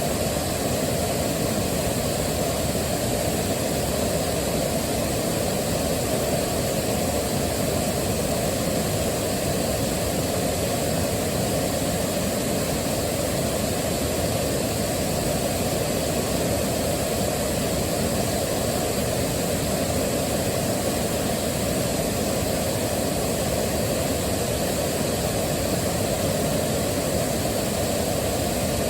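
Waterfall: a steady, even rush of falling water, heaviest in the low end, with no change.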